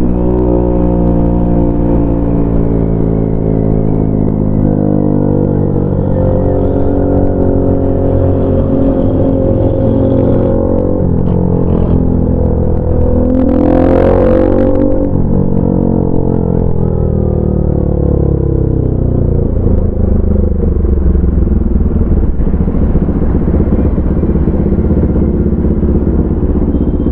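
Motorcycle engine running at fairly steady revs while riding, its pitch rising and falling about halfway through.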